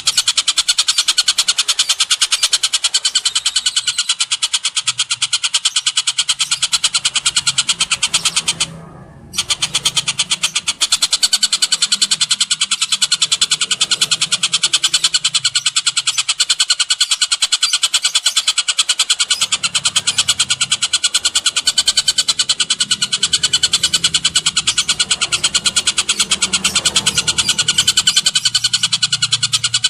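Recorded birdsong from a masteran track mixing tengkek buto, cililin and canary calls: a rapid, continuous high-pitched chattering trill that breaks off briefly about nine seconds in.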